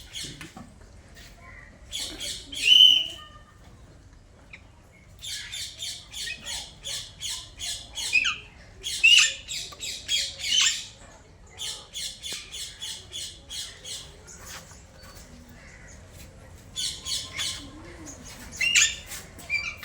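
A group of rose-ringed parakeets calling in bouts of rapid, shrill, repeated calls, about four a second, with short pauses between bouts.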